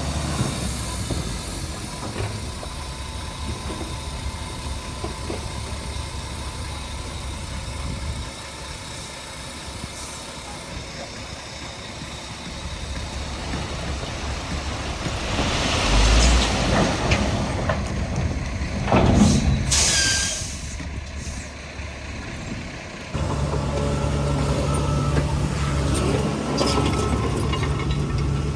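Diesel engines of heavy earthmoving machinery running steadily, with a loud hiss of air, like a truck's air brake, about two-thirds of the way through. Near the end a louder, deeper engine note comes in and holds.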